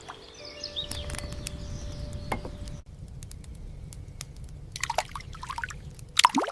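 Liquid pouring and trickling, with short chirping bird calls around the middle and near the end.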